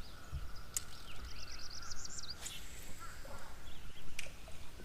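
Bird calls: a steady held whistle and a quick run of repeated high notes between about one and two seconds in, over a low steady rumble, with a few sharp clicks.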